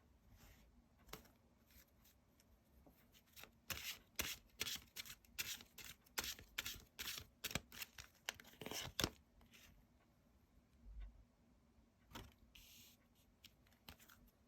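Tarot cards being handled and shuffled: a run of quick, sharp papery snaps and taps that is busiest through the middle, with a few scattered taps before and after.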